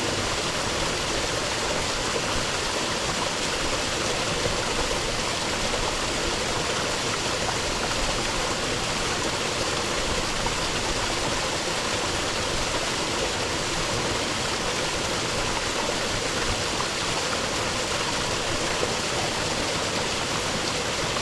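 Rainforest creek running steadily over rocks, a constant rushing of water.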